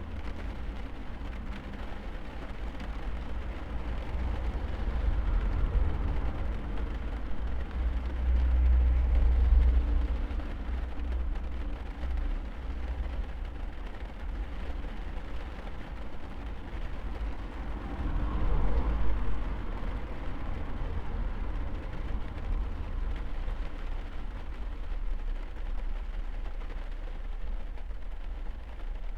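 Rain heard from inside a car cabin: a steady hiss over a strong low rumble, swelling louder twice, about a third of the way in and again past the middle.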